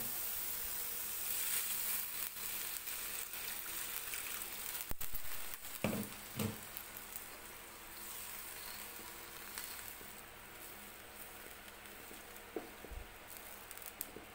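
Chicken liver and carrot strips sizzling in a hot wok, with a few spatula scrapes and knocks about halfway through. The sizzle quietens in the second half as water is added and the pan fills with broth.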